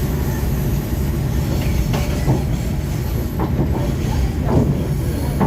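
Train rolling on the rails: a steady low rumble with short metallic squeals and clanks from the wheels over it.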